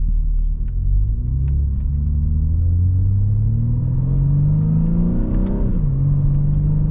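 BMW G80 M3's twin-turbo inline-six, fitted with a single midpipe exhaust, accelerating: the revs climb steadily for about five seconds, then drop sharply at an upshift about six seconds in, and the engine pulls on in the next gear.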